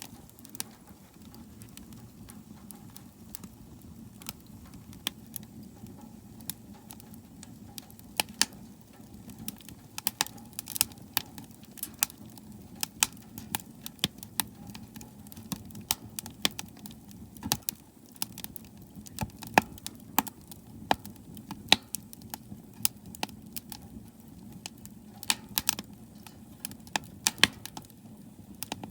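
Firewood burning in a wood stove, crackling and popping in irregular sharp snaps over a steady low rush of the fire.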